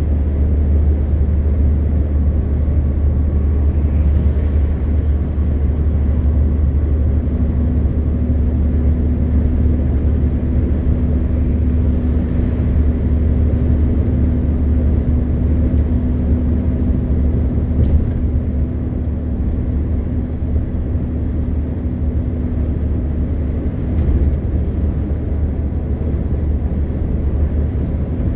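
MAN TGX 520 truck driving at a steady pace: the constant low drone of its straight-six diesel mixed with road and tyre noise. Two faint brief clicks come in the later part.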